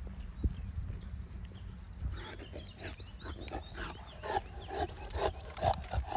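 Animal calls: from about two seconds in, a quick run of short sounds, starting as high chirping notes and turning into repeated short calls that grow louder toward the end, over a low rumble.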